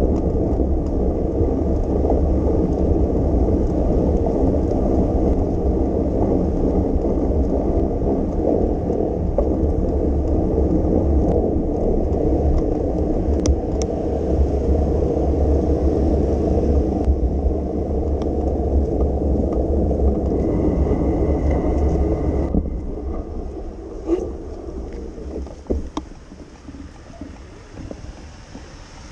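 Riding a bicycle through rain: a steady low rumble of wind on the microphone and tyres on the wet road. It drops away sharply about 23 s in as the ride slows, leaving quieter wet street noise with a few clicks.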